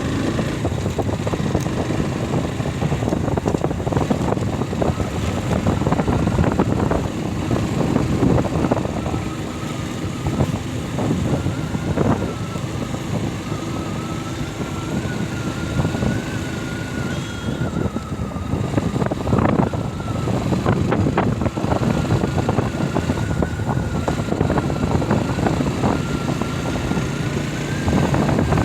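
Motorcycle engine running while riding, with a steady, slightly wavering high whine that joins about ten seconds in.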